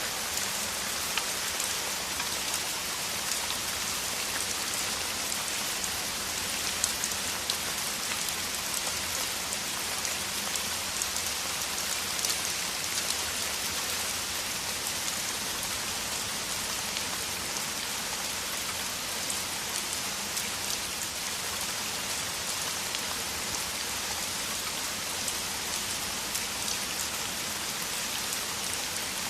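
Heavy rain falling steadily, a dense hiss of countless drops with scattered sharper drop impacts.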